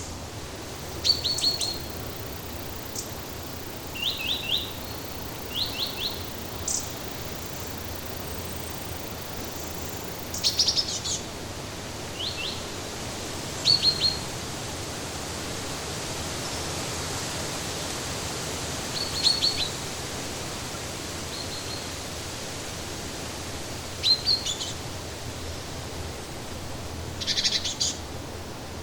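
Songbirds chirping in short groups of three or four quick high notes every few seconds, over a steady, even background hiss.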